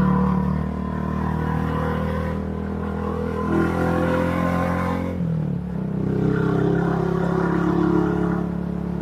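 Motorcycle engine running steadily while riding, heard through a helmet-mounted mic. About five seconds in the engine note drops in pitch briefly, then settles back to a steady run.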